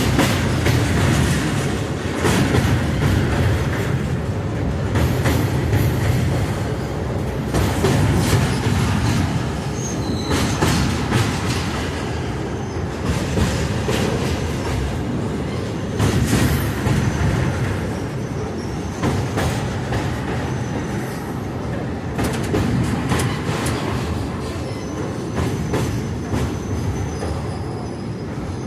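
Passenger train running along the track, heard from aboard a coach: a steady rumble of wheels on rail with frequent clicks over the rail joints, and a faint high wheel squeal at times.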